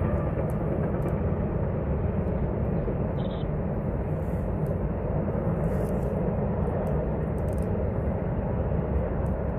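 Steady low rumble of a double-stack container freight train rolling across a trestle bridge.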